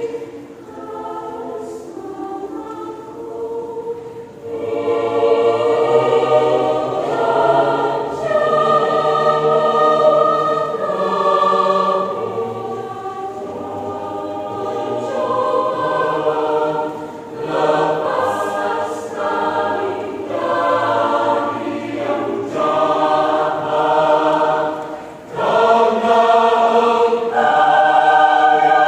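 Church choir singing a hymn in several-part harmony, swelling and easing in loudness, with a brief dip a little before the end.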